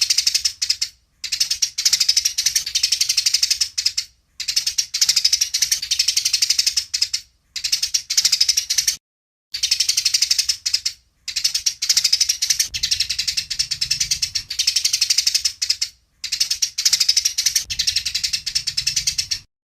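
Eurasian tree sparrows giving rapid, dense chattering chirps: agitated fighting calls. The chatter comes in bursts of one to three seconds, broken by short silences.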